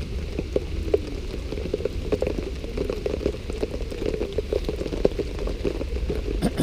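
Steady rain, with many irregular drops ticking close by over a low rumble.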